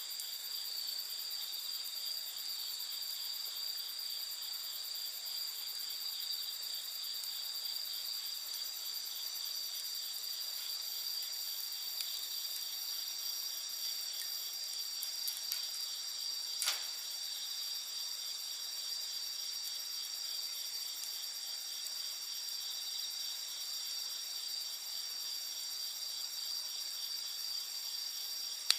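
A chorus of night insects chirring steadily at several high pitches. A few faint crackles from a wood fire come through it, with one sharper pop a little over halfway through.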